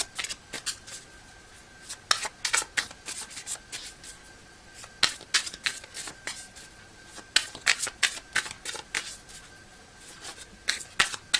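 Tarot cards being shuffled and handled in short flurries of crisp flicks and slaps, a few clusters a couple of seconds apart.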